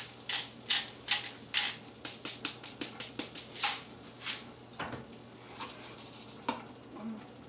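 Salt being shaken or tapped out of its container onto chicken: a quick, irregular run of sharp taps and clicks that thins out to a few scattered ones after about four and a half seconds, over a faint steady low hum.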